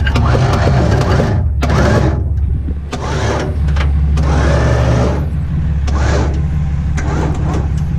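Toyota Tacoma pickup's engine running with a steady low drone while a junk car is moved up onto a trailer. Irregular bursts of louder noise come and go over it.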